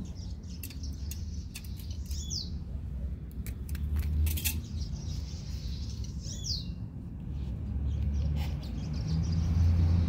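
A bird chirping twice outdoors, short high notes a few seconds apart, over a low rumble that grows louder near the end, with scattered small clicks.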